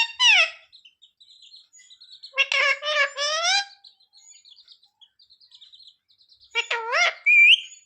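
A pet parrot vocalizing in three high, voice-like phrases of about a second each, with soft chirps in between and a short rising whistle near the end.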